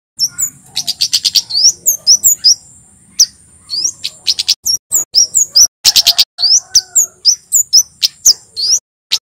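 Male kemade jawa, a flowerpecker, singing loudly: a rapid string of sharp, high chirps and upslurred notes over a thin, steady high trill. The song breaks off briefly around three seconds in and again near the end.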